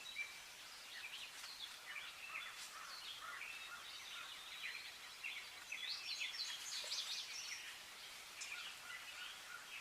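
Songbirds singing in a morning chorus: many overlapping short chirps and warbles, busiest around six to seven seconds in.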